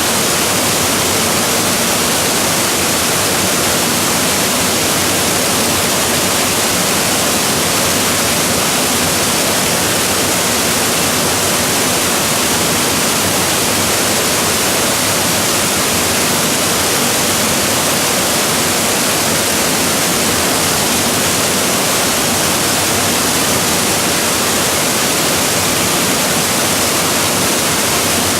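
Waterfall crashing steadily: a dense, unbroken rush of falling water, strongest in the hiss of the upper range.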